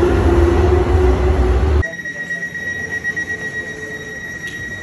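Elizabeth line train running behind platform screen doors with a loud low rumble and hum, cut off suddenly a little under two seconds in. Then a steady high-pitched tone sounds as the train and platform doors close for departure, with a click near the end.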